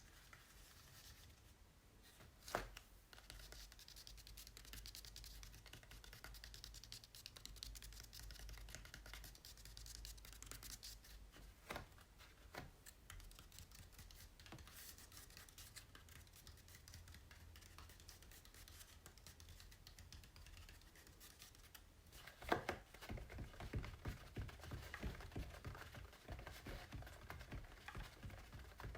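Faint scratching and tracing of fingers across the surface of an acrylic painting, with a few sharp taps; about three-quarters through, a loud tap starts a run of quick tapping on the painting.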